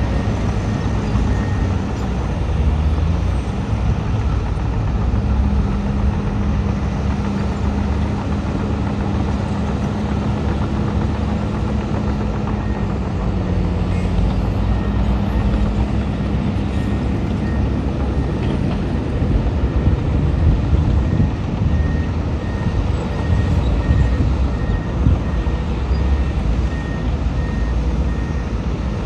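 Heavy diesel earthmoving machinery, a bulldozer and dump trucks, running steadily under load. A reversing alarm beeps at even intervals in short runs, longest in the second half.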